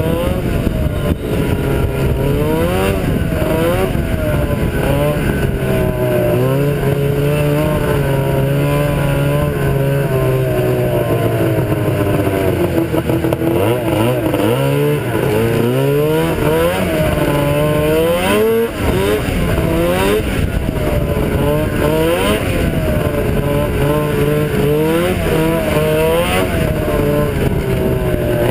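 Ski-Doo Blizzard 7500 snowmobile's two-stroke engine running hard, its pitch rising and falling again and again as the throttle is opened and eased, with a longer drop and climb about halfway through. The test run follows a secondary-clutch rebuild and a new drive belt.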